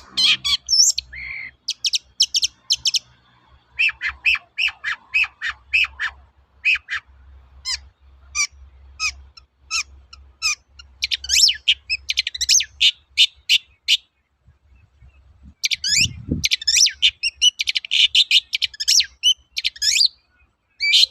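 Long-tailed shrike (cendet) singing: quick runs of short, sharp high notes and chattering phrases, with a pause of about a second and a half near the middle. A brief low thump sounds about sixteen seconds in.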